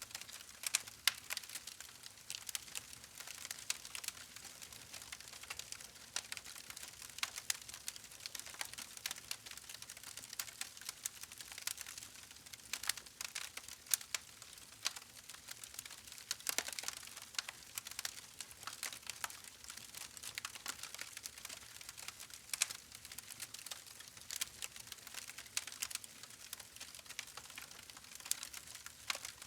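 Wood fire crackling steadily: a dense run of small sharp pops and snaps over a faint hiss, with a few louder cracks.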